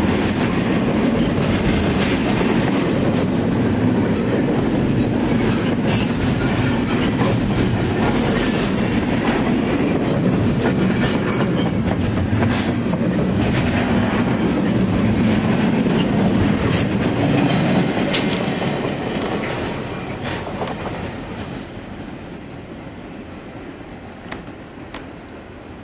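Double-stack intermodal container freight train passing close by: a loud steady rumble of the cars and wheels with frequent irregular clicks from the wheels on the rails. The sound fades away over the last several seconds as the train moves off.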